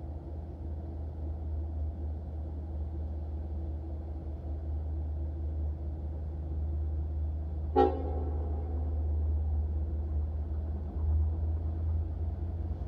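Long Island Rail Road train approaching a grade crossing: a steady low rumble that grows slowly louder, with one short, sharp toot about eight seconds in.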